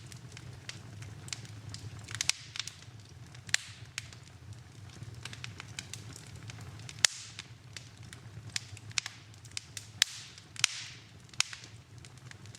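Wood fire burning in a fireplace, crackling with irregular sharp pops, the loudest about seven seconds in, over a steady low rumble. A brief hiss about ten and a half seconds in.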